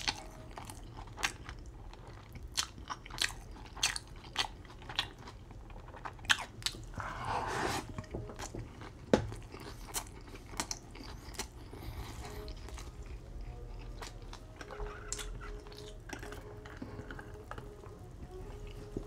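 A person chewing a mouthful of Burger King Whopper with cheese close to the microphone. Many short wet mouth clicks and smacks run through it, with a brief breathy noise about seven seconds in.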